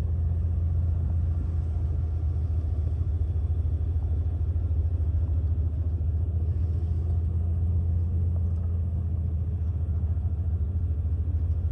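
A steady low rumble that holds at an even level throughout, with no breaks or changes.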